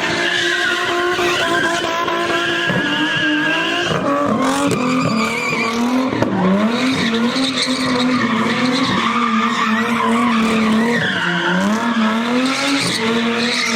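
Nissan Z drifting, its engine held at high revs that dip and climb again several times, while the rear tyres squeal.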